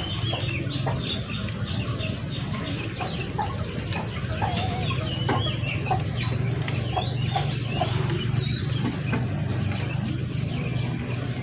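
Many short bird chirps and clucks scattered throughout, over a steady low hum.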